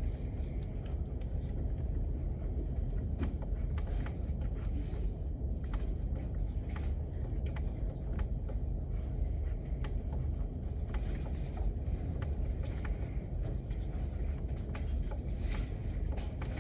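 Library room tone: a steady low rumble with faint, scattered small clicks and ticks over it.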